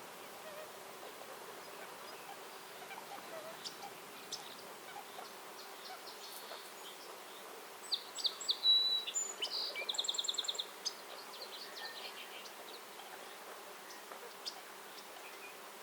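A songbird singing a short phrase of chirps that ends in a rapid, even trill, about eight to eleven seconds in. Scattered single chirps from other birds and a steady faint hiss run under it.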